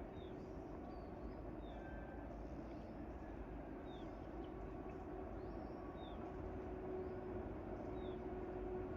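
Faint outdoor ambience: a bird gives short high chirps about every one to two seconds, over a low steady hum that grows slightly louder near the end.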